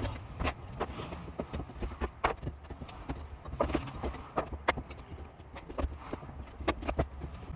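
Irregular hollow knocks and clacks on timber, a few a second, from work on a timber deck, over a steady low rumble.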